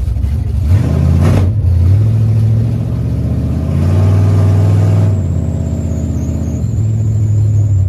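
Car engine running loud and steady, revved briefly about a second in and again for about a second in the middle, then dropping back to a steady run.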